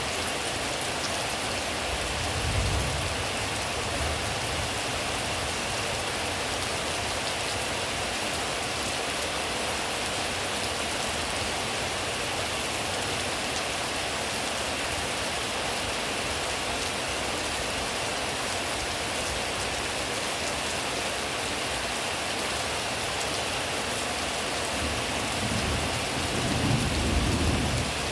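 Steady, even rain falling on surfaces, with a brief low rumble swelling up about two seconds in and a longer one near the end.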